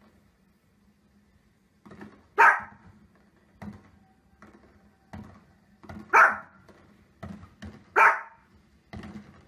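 Small dog barking: three sharp, loud barks spaced a few seconds apart. Fainter short thuds and pops fall between them, fireworks bangs from a television.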